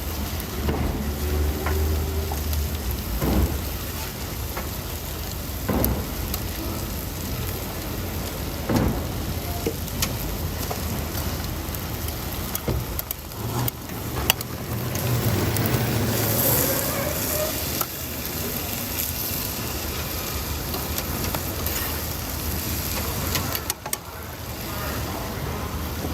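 Food sizzling as it fries on a hot cooking surface, a steady hiss with scattered sharp clicks and knocks, over a background of traffic.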